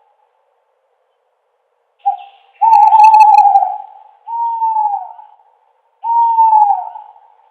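Owl hooting: a short note about two seconds in, then three long hoots, the last two sliding down in pitch at their ends.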